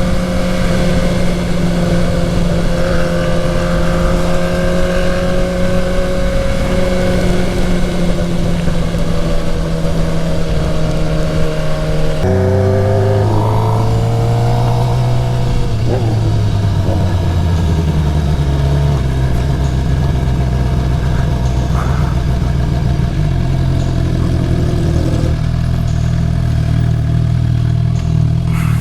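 Suzuki GSX-R750's inline-four engine running at a steady cruise under a rush of wind noise. About twelve seconds in, the engine note drops abruptly to a lower pitch, sinks a little further and then holds steady.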